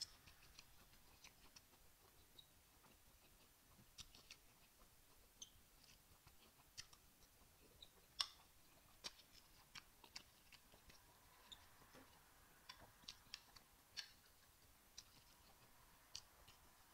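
Close-up eating sounds: scattered wet mouth clicks and lip smacks while chewing rice and beans, with a louder clink of a metal spoon on the plate about eight seconds in.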